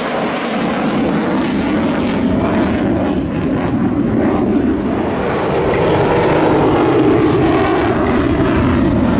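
Fighter jet engine noise: a loud, steady rushing that grows a little louder about six seconds in.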